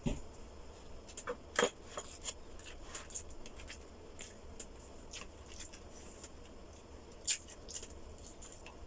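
Close-up eating sounds: chewing with scattered small wet clicks and smacks, the sharpest about one and a half seconds in and another near the end.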